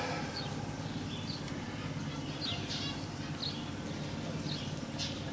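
A small bird's short, high chirps, repeated every half second to a second, over a steady low hum.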